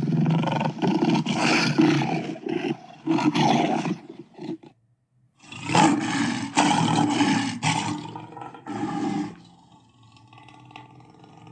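Tyrannosaurus rex roar sound effect: two long, rough roars, the first lasting about five seconds and the second starting after a brief silence just before halfway, which fades into a quieter rumbling tail near the end.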